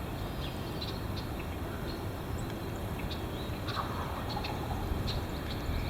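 Strong wind buffeting the microphone: a steady low rumbling noise, with faint short high chirps scattered through it.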